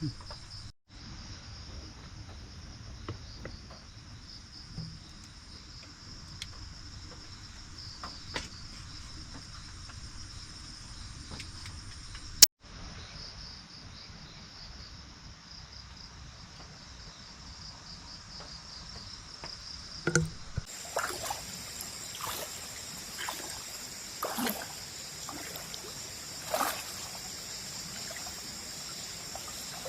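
Night insects chirring steadily over trickling stream water. There is a sharp click near the middle, and in the last third come several splashes and knocks in the water.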